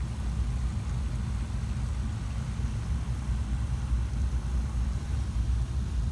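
Low, steady rumble of a car driving slowly, heard from inside the cabin: engine and road noise.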